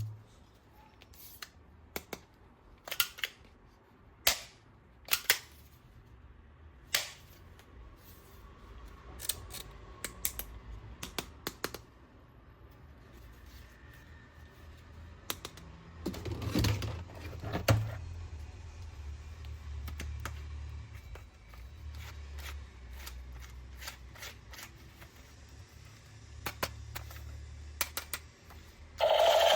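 Hard plastic toy parts being handled: sharp clicks and knocks at irregular intervals, with a louder cluster of knocks a little past the middle.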